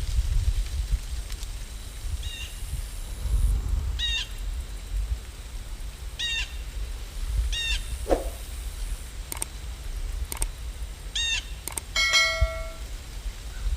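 Birds chirping in short calls every second or two, with one longer whistled call near the end, over a steady low rumble.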